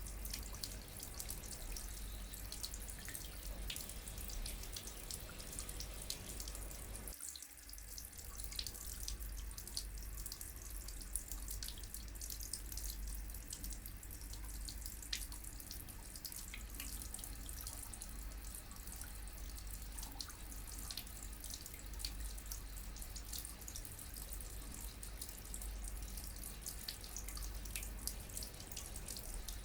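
Water running from a tap into a sink, a steady splashing hiss with many small drips and plinks, and a brief dip about seven seconds in.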